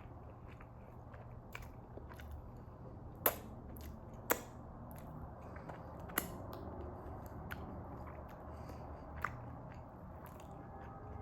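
Close-miked eating sounds of goat meat and fufu being chewed, with a few sharp mouth smacks or clicks; the loudest come about three and four seconds in. A faint steady low hum runs underneath.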